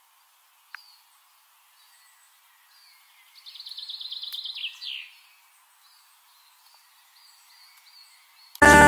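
Birdsong: a fast trill of rapidly repeated high notes about three and a half seconds in, lasting under two seconds and ending in a downward slur, with faint scattered chirps around it. Loud music cuts in just before the end.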